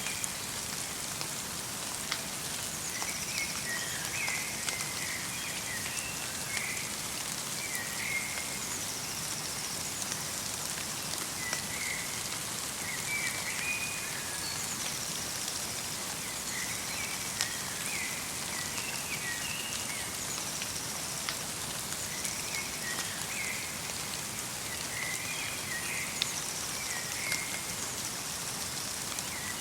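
Steady light rain, with individual drops ticking on nearby surfaces, while a small songbird calls over it in short repeated chirping phrases every few seconds.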